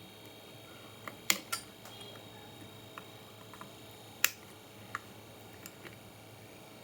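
A few sharp clicks and taps of small hard objects, the loudest a little over a second in and again past the middle, with fainter ticks between.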